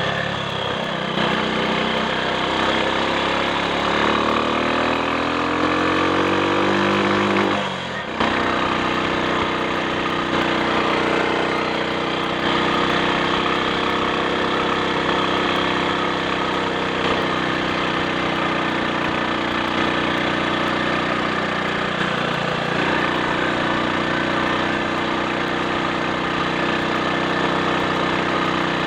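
Triumph Sports Cub's single-cylinder four-stroke engine pulling on the road: revs rise steadily for several seconds, dip briefly at a gear change about eight seconds in, then hold a steady cruising note.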